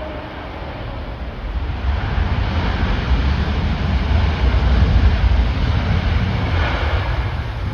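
Storm-force wind buffeting the microphone with a heavy, gusty rumble, while the engine noise of a jet airliner on approach swells over a few seconds and then begins to ease.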